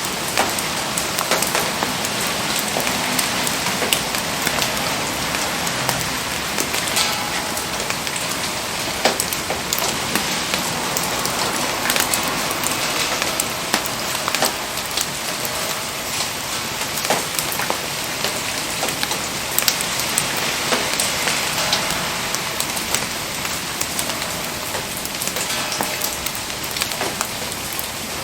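Steady rain pattering, with frequent short sharp ticks and pops scattered through it.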